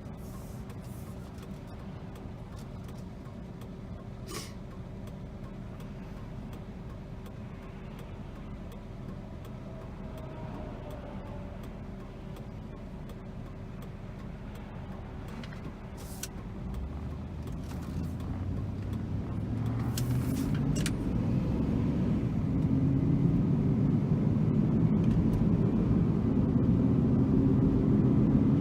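A 2002 Chevy Avalanche's 5.3-liter V8 and tyre noise while the truck is driven. For the first two-thirds it runs steadily and quietly; then the engine note rises and grows louder as the truck accelerates to about 50 mph, pulling strongly through smooth gear shifts.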